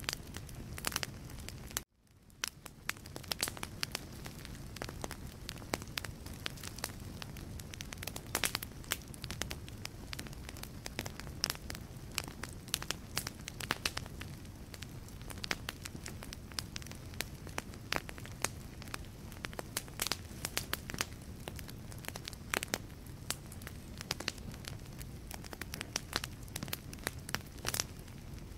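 Wood logs burning in a fireplace, crackling: many sharp pops and snaps over a low steady rumble of the flames. About two seconds in the sound cuts out for a moment and fades back in.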